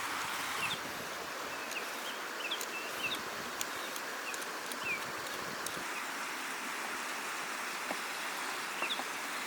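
Steady outdoor ambience like a running stream, with short, high bird chirps through the first half and a few faint light clicks.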